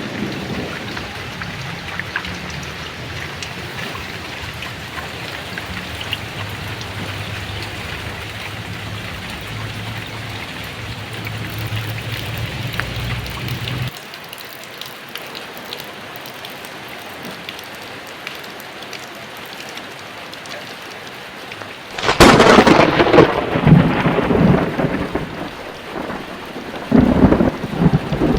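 Heavy rain falling steadily, with thunder: a low rumble through the first half, then a loud, sudden thunderclap about three-quarters of the way in that rolls on for a few seconds, and another burst of thunder near the end.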